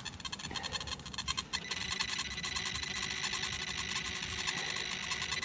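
Metal detector sounding a steady high-pitched tone over a shallow target, a bottle cap. The tone breaks off briefly about a second and a half in, then carries on.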